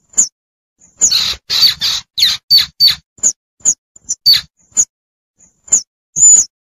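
Baby squirrel calling for its mother, a recorded lure call: short, sharp, high-pitched chirps, a quick run of falling squeaks from about one to five seconds in, then a longer, louder call near the end.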